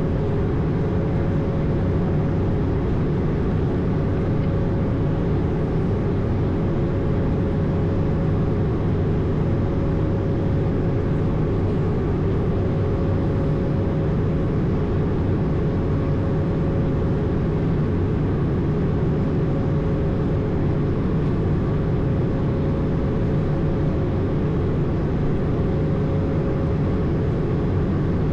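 Steady in-flight noise on the flight deck of an Airbus A220: a constant rush of airflow and engine hum from its Pratt & Whitney geared turbofans, with a steady mid-pitched tone running through it.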